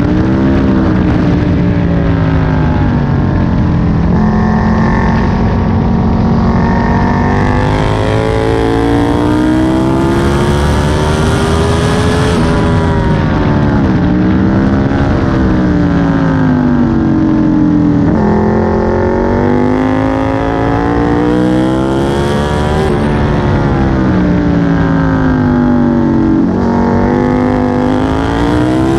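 Aprilia Tuono 1000's V-twin engine heard onboard at speed on a track, revs climbing as it accelerates and dropping back under braking several times over, with rushing wind noise when it is fastest.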